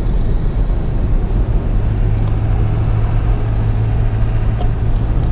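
Truck driving on a paved road, heard from inside the cab: a steady engine and road-noise rumble.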